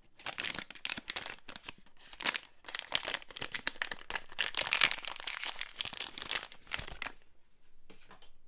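Wrapping being pulled off a bar of soap: dense crinkling of the packaging that stops about seven seconds in, followed by a few faint ticks.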